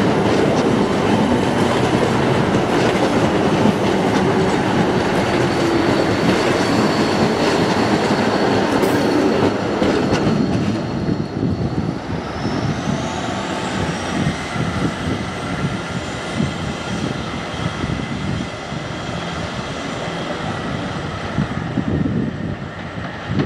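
A train passing close by, loud for about ten seconds. Then the noise drops away, and a high whine rises in pitch and holds steady over quieter train running noise.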